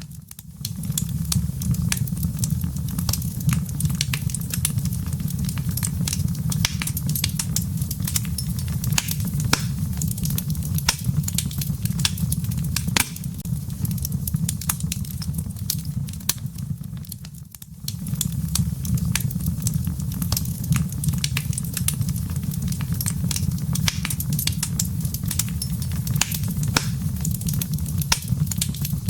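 Wood logs burning in a fireplace: many sharp, irregular crackles and pops over a steady low rumble of the flames. The sound dips briefly a little past halfway, then carries on as before.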